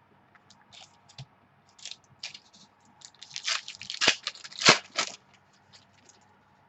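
Trading cards and their plastic packaging being handled: a run of crinkling, rustling and small clicks, sparse at first, then thicker and loudest about three to five seconds in, before tapering off.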